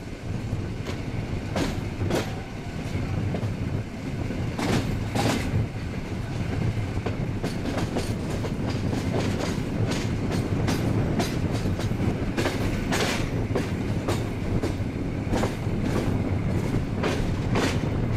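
Moving passenger train heard from inside the carriage: a steady running rumble with a stream of clicks and clacks from the wheels passing over rail joints.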